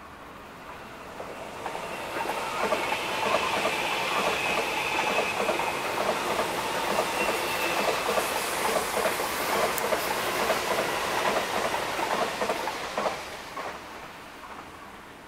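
MTR East Rail Line electric trains, an MLR and an SP-1900, passing each other on the line. Wheels clack over rail joints in a steady rhythm, with a high steady whine through the first half. The sound builds about two seconds in and fades away after about thirteen seconds.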